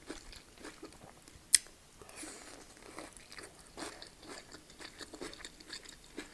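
Close-miked chewing of a mouthful of stuffed pepper, a steady run of short soft chews. About a second and a half in there is a single sharp click, the loudest sound.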